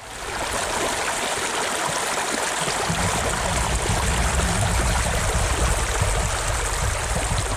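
Mountain stream flowing and splashing in a steady rush, with a deeper rumble joining about three seconds in.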